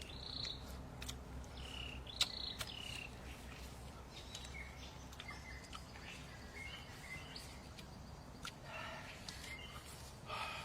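Outdoor ambience: a few short bird chirps and insect sounds over a steady low hum, with scattered light clicks; one sharp click about two seconds in.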